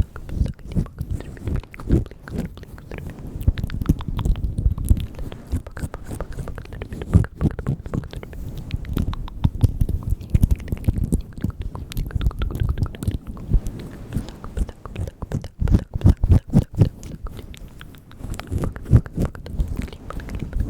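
Close-miked ASMR mouth sounds, the 'bugs' trigger: a dense, irregular stream of quick wet clicks and smacks from tongue and lips.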